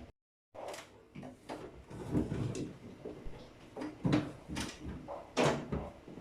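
Irregular knocking and clattering of refrigerator parts, such as drawers, racks or shelves, being handled and set in place, with the loudest knocks about two, four and five and a half seconds in.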